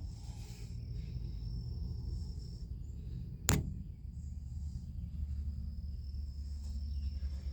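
Quiet background with a low steady rumble and a faint steady high-pitched hum, broken by a single sharp click about three and a half seconds in.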